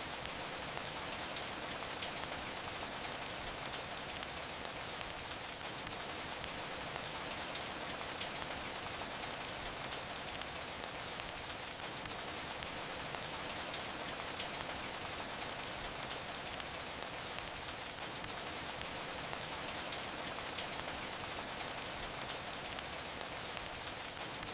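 Steady rain falling, an even hiss, with irregular sharp crackles from a wood fire in a fireplace scattered through it.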